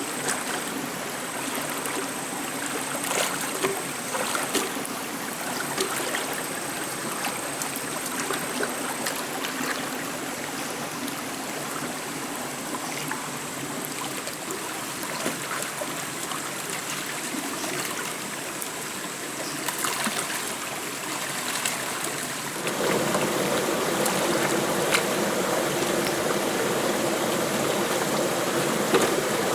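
Stream water running, a steady rush with scattered small clicks; about 23 seconds in, the water turns fuller and a little louder.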